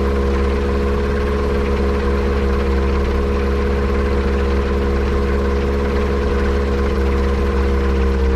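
Yamaha Apex four-cylinder snowmobile engine in a Kitfox airplane running steadily at idle. The engine is being checked for a misfire that the owner suspects comes from a vacuum leak.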